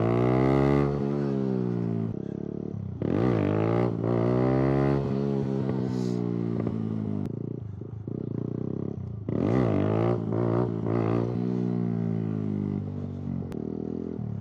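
Kawasaki Z125 Pro's small single-cylinder engine revving up and falling away three times, each rise followed by a long drop in pitch: clutch-up wheelie attempts.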